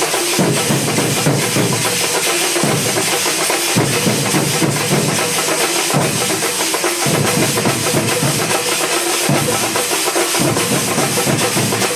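A thambolam drum band playing a loud, fast rhythm of dense, rapid strokes. Deeper drum tones come in and drop out every second or two.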